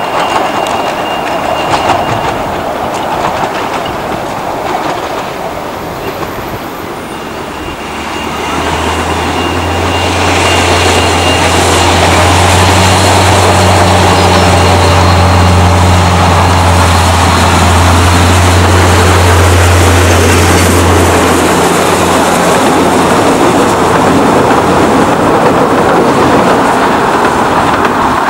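Miniature railway train running by, growing louder about a third of the way in and staying loud. A strong low steady hum sounds through the middle and stops about three quarters of the way through.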